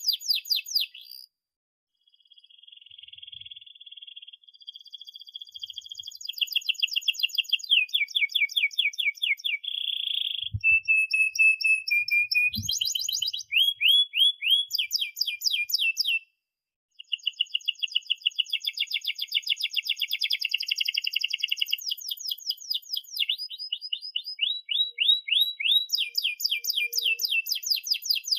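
Domestic canary singing loudly, with long rolling trills of rapidly repeated sweeping notes that change from one phrase to the next. The song breaks off twice for a moment.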